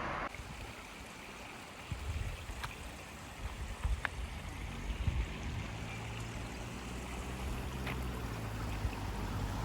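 Running water, an even hiss, with an uneven low rumble of wind on the microphone and a few faint ticks.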